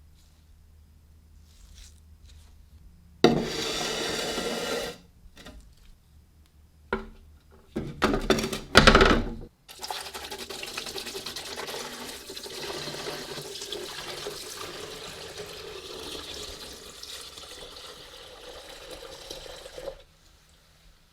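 Water running into a sink, first in short loud bursts and then flowing steadily for about ten seconds before stopping abruptly.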